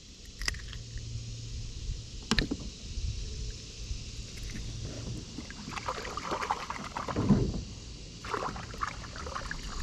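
Handling noises in a fishing kayak: light knocks and scraping, with two sharp clicks in the first few seconds.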